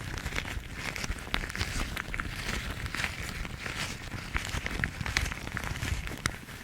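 Yellow household rubber gloves being rubbed and scratched by hand: a continuous crackling rustle of rubber, full of short sharp clicks.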